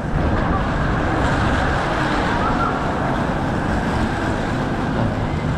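Steady, pitchless rumble of a moving vehicle's travel noise, even in level throughout.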